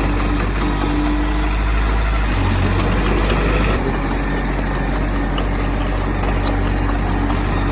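Heavy diesel engine of earthmoving machinery running steadily and loudly, its low note shifting briefly around the middle.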